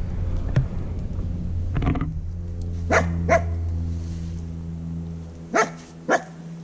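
Dog growling in a low, steady rumble, broken by several short, sharp barks; the growl fades out late on.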